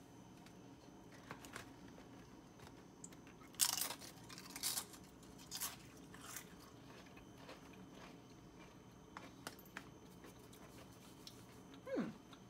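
Crunching bites and chewing of a tortilla chip coated in creamy dip, with a few sharp crunches about four to six and a half seconds in, then fainter chewing. A short falling 'mm' from the taster near the end.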